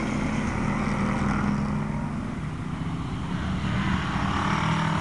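Race car engines running on the track, easing off slightly about halfway through and building again near the end.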